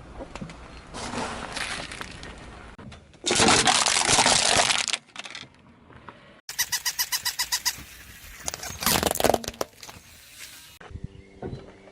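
Objects crushed under a car's tyre in a series of short cuts: a loud burst of crunching a few seconds in, then a quick run of about a dozen sharp cracks, then another loud crunch.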